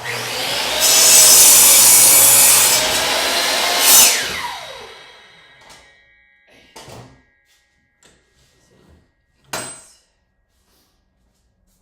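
Miter saw motor starting and the blade cutting through a pressure-treated 2x4 for about four seconds, then the motor winding down with a falling whine. A soft knock follows, and a sharp wooden clack near the end as the wood or saw is handled.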